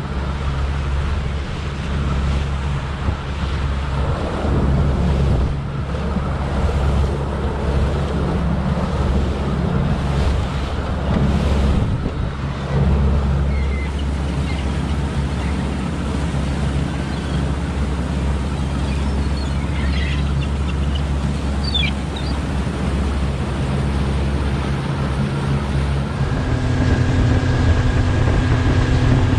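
A boat engine running steadily underway, with wind on the microphone and water rushing past the hull in choppy seas. Near the end the engine note rises and gets louder.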